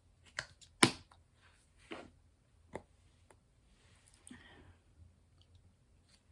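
A few sharp small clicks and taps of diamond painting supplies being handled, the loudest about a second in, then a faint soft rustle.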